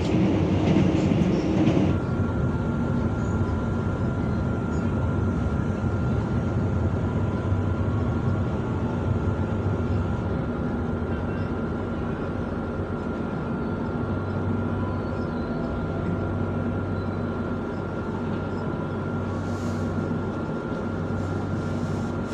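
Passenger train heard from inside the coach: the steady rumble of the running train, with a faint, steady high whine from about two seconds in.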